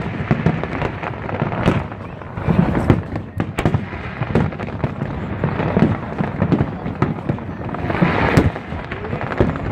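Fireworks display: a rapid, continuous succession of booming shell bursts overlapping with crackling.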